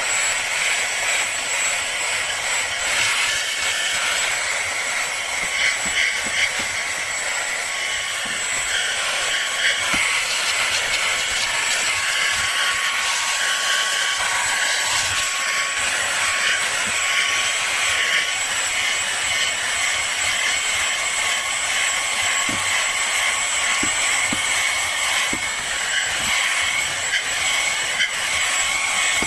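Cordless stick vacuum cleaner running: a steady rush of air with a high motor whine, level throughout with small wavers in loudness.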